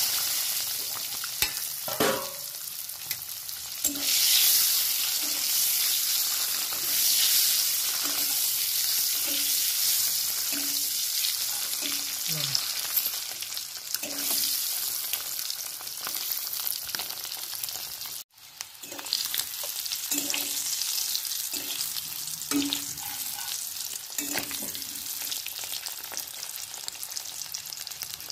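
Whole peeled boiled eggs frying in hot oil in an iron kadai: a steady sizzling hiss, with a metal spoon tapping and scraping against the pan every second or so as the eggs are turned. The sound cuts out briefly about two-thirds of the way through.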